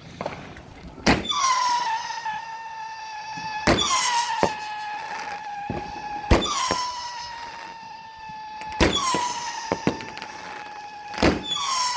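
A 20-shot firework cake firing shots about two and a half seconds apart, five in all. Each shot is a sharp bang followed by a long whistle that falls slightly in pitch, with a few smaller cracks between shots.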